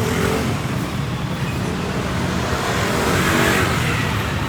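Street traffic: a motor vehicle's engine running close by over a steady wash of road noise, growing loudest about three seconds in as it passes.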